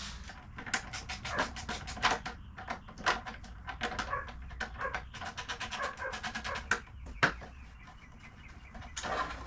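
Sharp clicks and knocks in quick irregular runs from hand-tool work and plastic parts as a truck's engine cover is unfastened and pulled off, with a single louder knock a little after seven seconds in.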